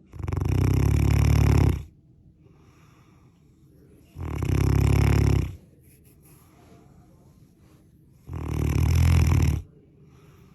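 English Mastiff snoring loudly in its sleep: three long snores about four seconds apart, each lasting about a second and a half.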